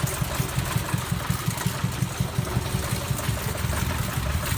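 A small engine running steadily with a fast, even chugging beat of several pulses a second.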